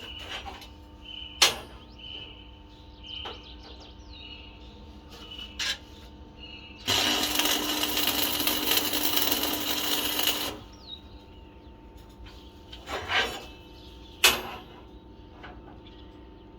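Metalworking sounds: steel pieces clinking and knocking a few times, with a steady harsh hiss lasting about four seconds in the middle, likely a welding or grinding pass on steel.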